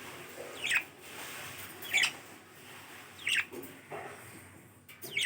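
Small parrot calling: four short, high chirps, each falling quickly in pitch, about a second and a quarter apart.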